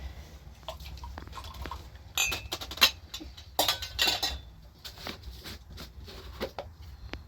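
Irregular clinks, knocks and scrapes of objects being handled, with two louder clusters a couple of seconds in.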